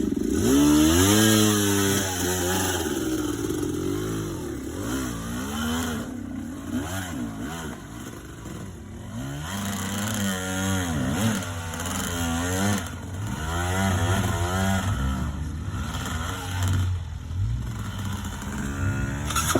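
Dirt bike engine revving up and down again and again as it works over rough trail, the pitch rising and falling every second or two. It is quieter for a few seconds in the middle before building again.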